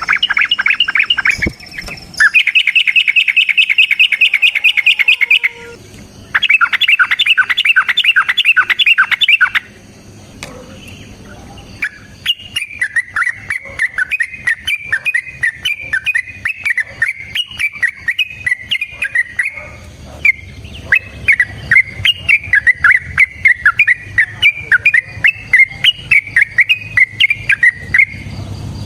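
Yellow-vented bulbul (trucukan) singing: three bursts of rapid, evenly repeated chattering notes in the first ten seconds, then a long unbroken run of quick, varied notes through the rest.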